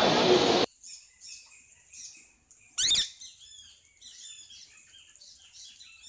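A loud, steady din cuts off abruptly under a second in. Then birds chirp and twitter softly, with one loud, brief, rasping bird call about three seconds in.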